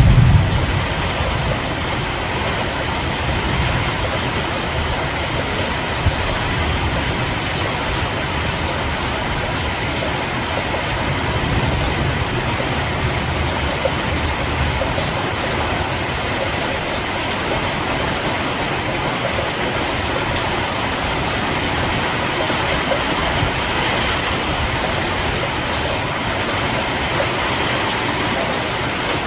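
Steady heavy rain falling, an even hiss across the whole sound. A low rumble of thunder dies away in the first second.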